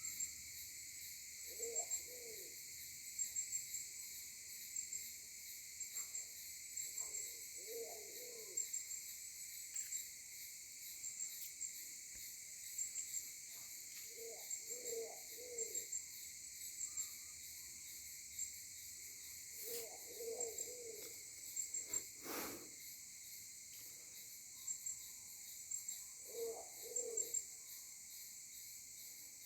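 Bird giving low hooting calls, a short phrase of two or three hoots about every six seconds, five times, over a steady high-pitched insect chorus with faint chirping. A single sharp click about 22 seconds in.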